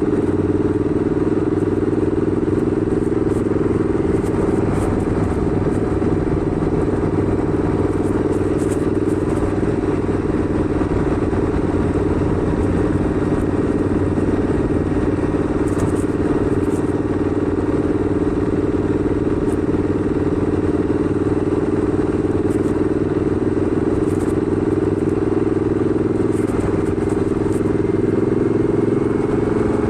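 Motorcycle engine running steadily at cruising speed, with wind and road noise, its level and pitch holding even throughout.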